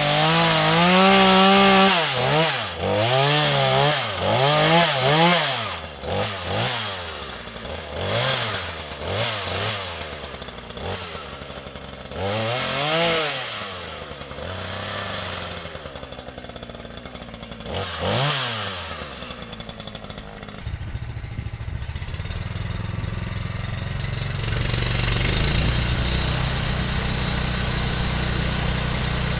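A sawmill's engine is revved up and down over and over, its pitch rising and falling in repeated sweeps. About twenty seconds in it settles to a steady, even running note.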